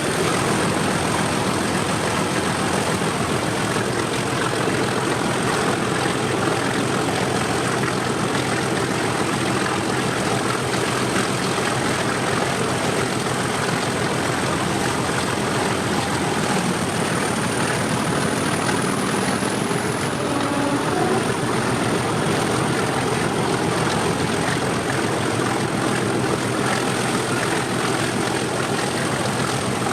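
Class 37 diesel locomotive's English Electric 12CSVT engine running steadily, heard from the train behind it, with a high turbocharger whistle that rises briefly about two-thirds of the way through.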